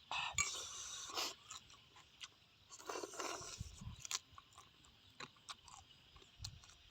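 Crunchy chewing of fried small birds, in two short bursts with scattered small clicks and crackles between them.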